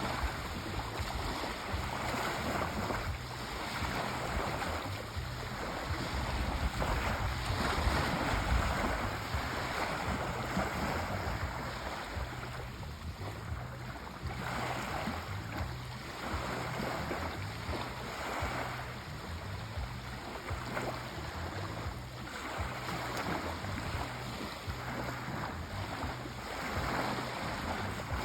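Sea waves washing on the shore, a continuous rushing noise that swells and eases every few seconds.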